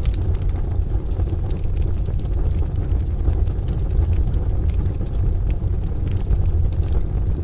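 Wood stove fire crackling with scattered sharp pops over a steady deep rumble from rain and distant thunder.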